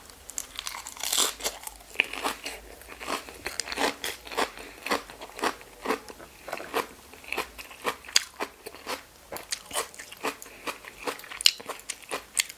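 Close-miked crunchy chewing of a mouthful of razor clam wrapped in a lettuce leaf, crisp crunches coming about twice a second.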